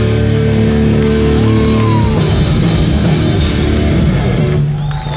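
A hardcore band playing live, with loud distorted guitars and drums. The music cuts off near the end and the crowd starts shouting and cheering.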